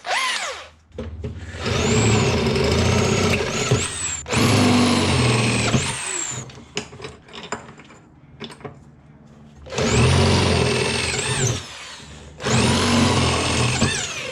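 Electric drill boring holes in steel plate with a 9 mm bit: a brief spin right at the start, then four runs of the motor whining under load with short pauses between them.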